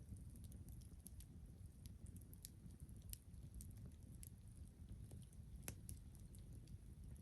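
Campfire wood burning, with faint irregular crackles and pops over a low steady rumble.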